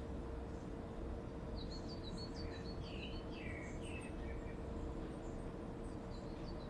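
Small birds chirping in quick runs of short, high calls over a steady low hum with a constant tone. The chirps come in a burst from about a second and a half in, then a few more near the end.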